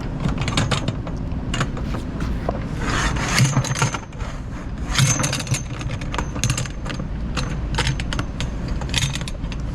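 Steel tie-down chain clinking and scraping in irregular runs as it is handled and fed through a cable reel, over a steady low rumble.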